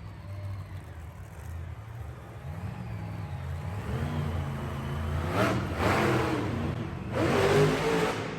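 Monster truck engine revving, its pitch climbing slowly, then two loud bursts of throttle about five and seven seconds in.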